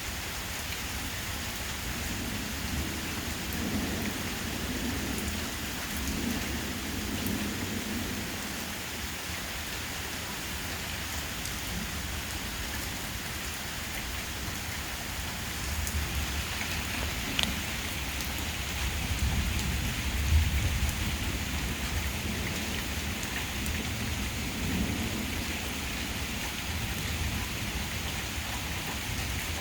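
Steady rain in a thunderstorm, with low thunder rumbling a few seconds in and again past the middle.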